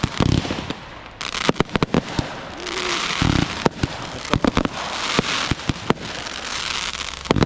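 Consumer fireworks going off: a quick run of sharp bangs and pops, with spells of dense crackling hiss from crackle shells.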